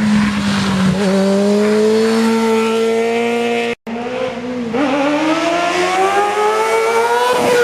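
2001 Kawasaki ZX-6R's inline-four engine running at high revs under way, holding a steady pitch at first. After a brief dropout about four seconds in, the pitch dips, climbs slowly and falls off near the end.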